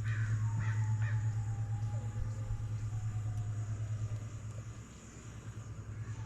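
A crow-type bird cawing three times in quick succession in the first second, over a steady low hum.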